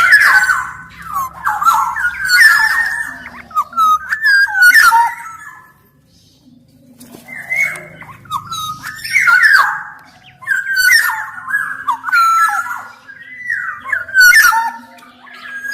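Black-naped oriole (kepodang) singing vigorously: phrases of fluid whistled notes mixed with harsher, buzzier calls, with a pause of about a second and a half near the middle.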